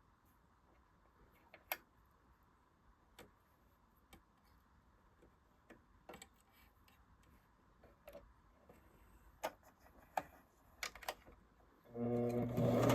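Scattered light clicks and taps from handling a Singer Genie 353 sewing machine. About a second before the end its electric motor starts and runs steadily as it sews.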